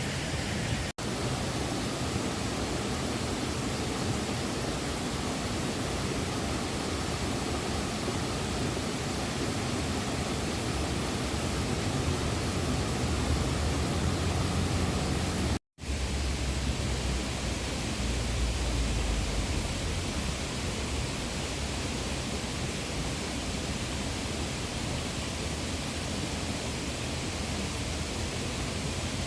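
Steady rushing of a river, an even wash of water noise, heavier and deeper for several seconds midway. It cuts out for an instant twice, about a second in and about halfway.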